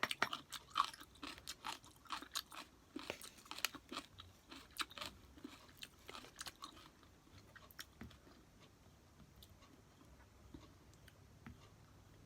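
A person chewing kimchi, with crisp crunching for the first several seconds that fades to faint, occasional chewing.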